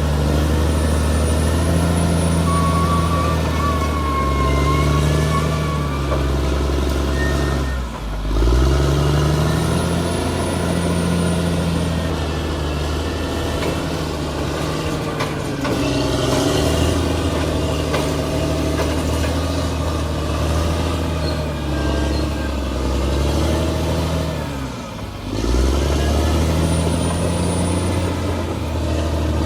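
Bulldozer's diesel engine running under load, its pitch rising and falling as it works, dropping briefly about eight seconds in and again near the end. Thin high whines come and go over the engine.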